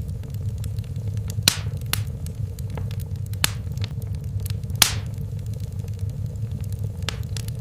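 Fireplace fire burning: a steady low rumble of flames with sharp crackles and pops at irregular moments, the loudest about a second and a half in and again near five seconds.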